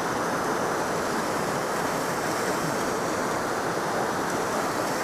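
Glacial river water rushing steadily, an even unbroken noise of running water.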